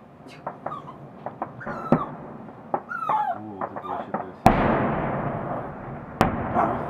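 Fireworks salute going off: scattered sharp cracks, then a loud bang about two-thirds in that trails off into crackling, and another sharp crack near the end. A pet whimpers in short, bending cries in between.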